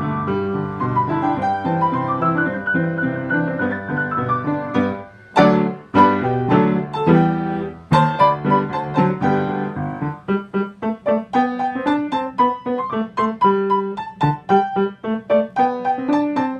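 Piano playing: a flowing line of notes, a brief break about five seconds in, a few loud chords, then short detached notes at about three to four a second.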